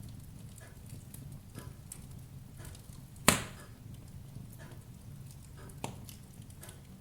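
Wood fire crackling in a fireplace: scattered light crackles over a low steady rumble, with one loud pop about three seconds in and a smaller one near six seconds.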